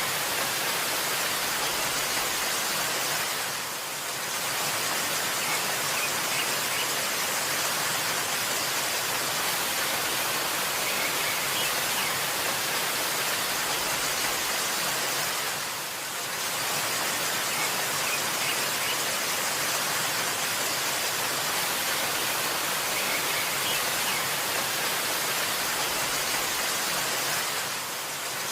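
Waterfall rushing steadily, an even hiss weighted toward the high end, with brief dips in level about every twelve seconds.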